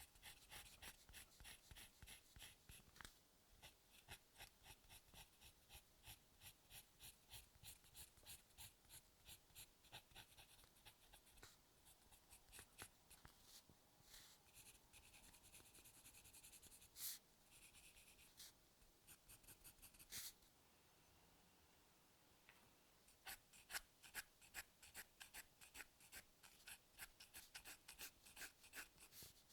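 Soft, quick sketching strokes of a drawing tool scratching across paper, about three to four a second, with a few longer strokes in the middle. There is a short pause about three quarters of the way in, and then the strokes resume.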